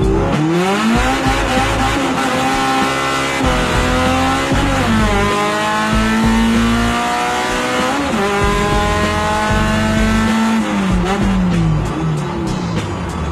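Naturally aspirated B20 VTEC four-cylinder in a Honda Civic EF hatchback pulling hard through the gears. The revs climb, drop at a shift about four and a half seconds in, climb again, and drop at a second shift about eight seconds in. They climb once more, then fall away near the end.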